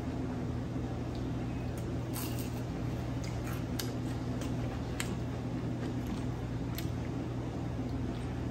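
Close-up chewing and wet mouth sounds of someone eating fried fish, with scattered small clicks, over a steady low hum in the room.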